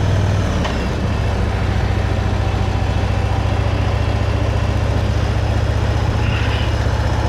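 Motorcycle engine running steadily at low revs, a deep even throb that drops slightly in pitch about half a second in.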